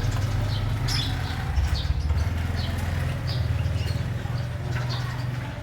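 Short, high chirps from small caged finches, a canary and a white-headed munia, repeating about once a second over a steady low rumble.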